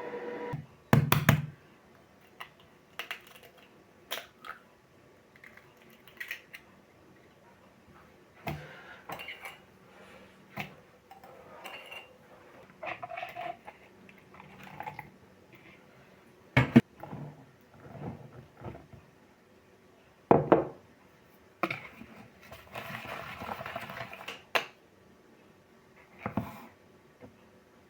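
Kitchen work with dishes and utensils while making pancake batter: scattered knocks and clinks of bowls, cutlery and containers being handled. The sharpest knocks come about a second in and again around seventeen and twenty seconds in, with a short rustling, scraping stretch shortly after.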